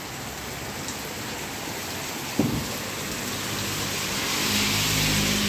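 Heavy rain falling steadily, with a single sharp knock about halfway through. Toward the end a motor vehicle passes on the wet road, its tyre hiss and low engine hum swelling.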